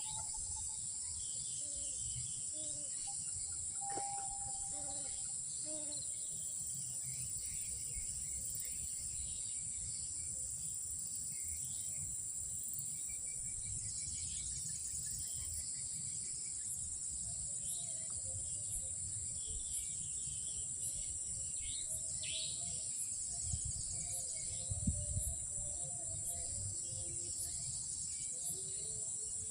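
Night insect chorus: a steady, high-pitched drone of crickets throughout. A few faint, short calls sound in the first few seconds, over a low rumble, and a few soft bumps come near the end.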